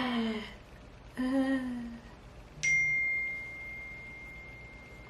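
A single high, bell-like ding, struck once and ringing out as one clear tone that fades slowly over about three seconds.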